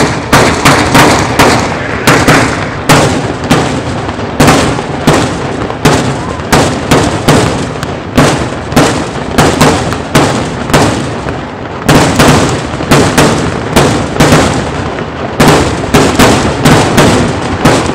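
Fireworks finale: aerial shells bursting in rapid, overlapping succession, about three loud bangs a second.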